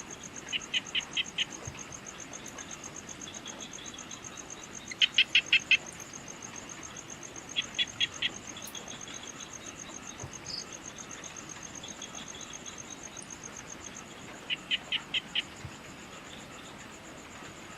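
Evening insect chorus: a steady, fast-pulsing high trill throughout. Over it, a bird calls in short quick series of four to six sharp chirps, about four times, and these chirps are the loudest sound.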